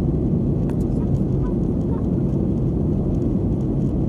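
Steady low rumble of engine and airflow noise heard inside a passenger airplane cabin.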